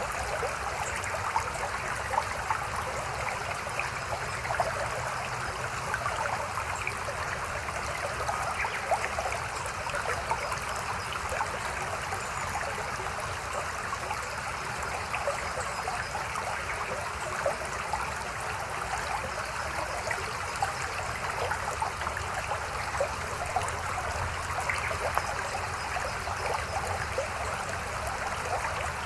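Mountain stream babbling steadily over rocks, a continuous rush of water with small splashes and gurgles.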